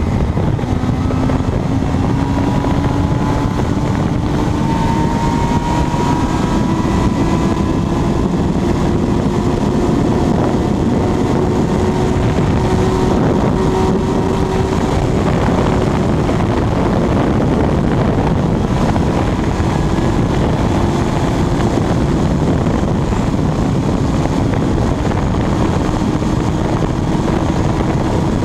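Kawasaki Ninja sport bike engine held at full throttle at very high speed, its note creeping slowly higher over the first half and then holding roughly steady, under heavy wind noise on the microphone.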